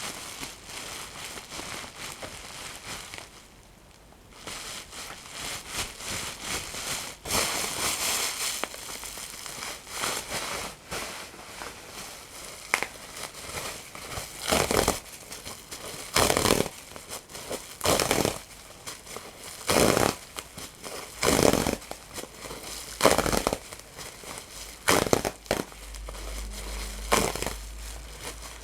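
Close-up crinkling and crackling of material being crumpled and crushed by hand, with a brief lull about four seconds in. In the second half, sharp loud crunches come about every one to two seconds.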